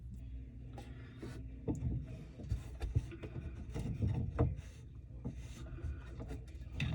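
Irregular light knocks and scraping rubs, as of parts and tools being handled, busiest in the middle seconds.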